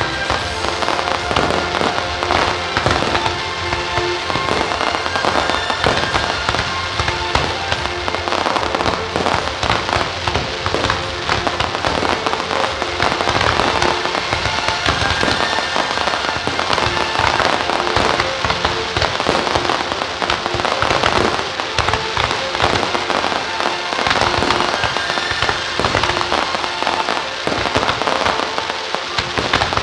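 Fireworks going off in a dense, unbroken barrage of bangs and crackles, with music playing through it.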